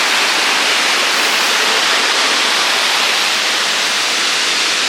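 Waterfall cascading: a steady, loud rush of falling water.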